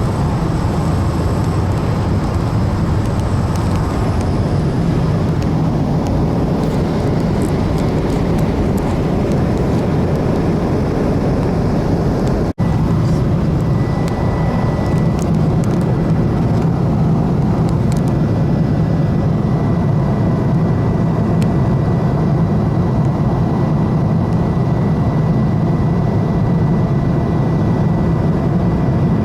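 Steady engine and airflow noise inside an airliner cabin, with a brief cut a little before halfway and a faint steady high tone in the second half.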